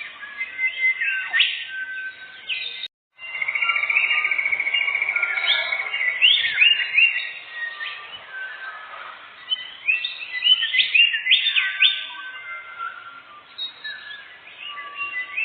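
Songbird singing in rapid, varied whistled phrases, with a long trill starting about three seconds in. All sound cuts out briefly just before the trill.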